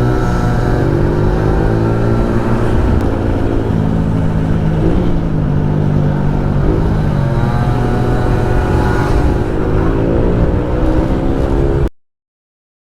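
Small motorbike engine running on the move, its pitch falling and rising several times with the throttle. The sound cuts off suddenly near the end.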